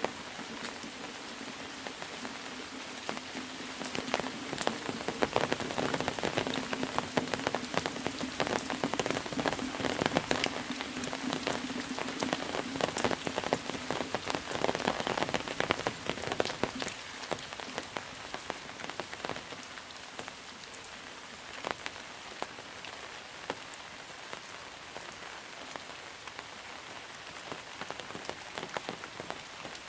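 Monsoon rain falling, with many separate drops hitting a surface. It grows heavier about four seconds in and eases again after about sixteen seconds, with a faint steady low hum underneath in the first half.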